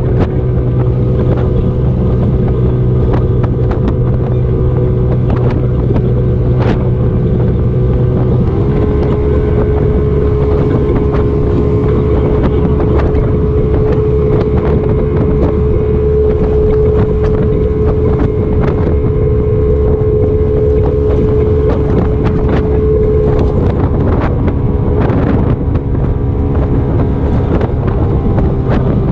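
Motorboat engine running steadily under way, with wind buffeting the microphone. The engine note rises a little about eight seconds in, holds, and drops back again near the end.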